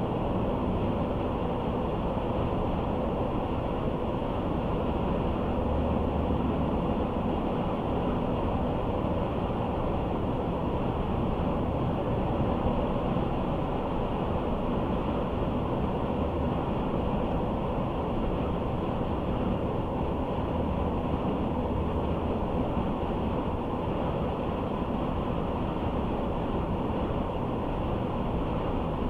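Steady road noise of a car driving at speed: an even rumble of tyres and engine with no changes.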